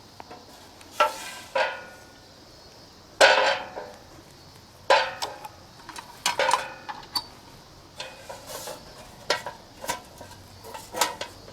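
Large old aluminium pot being handled: irregular metallic clanks and knocks, each with a short ring, the loudest about three seconds in and lighter taps after.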